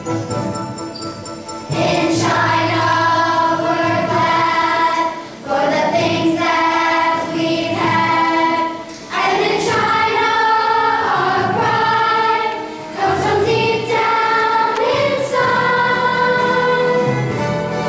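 Choir singing with music accompaniment, coming in about two seconds in after a softer instrumental opening. It sings held notes in phrases broken by short pauses.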